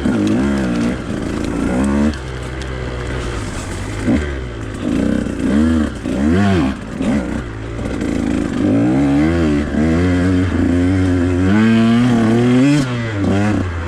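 Husqvarna TE 150 two-stroke dirt bike engine revving up and falling back again and again as the throttle is worked, the pitch rising and dropping every second or two. It holds a steadier, higher note for a couple of seconds near the end.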